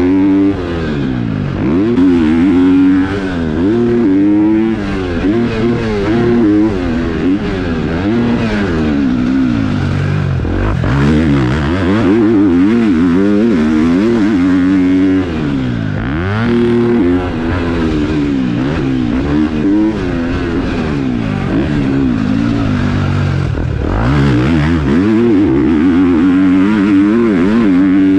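KTM four-stroke motocross bike engine revving hard and backing off over and over, its pitch rising and falling every second or two as the throttle is worked around the track.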